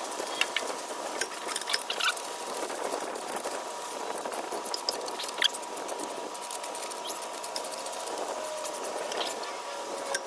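Scattered light clicks and taps at irregular intervals over a steady hiss with a faint high steady whine, from hand work fitting the exhaust tip.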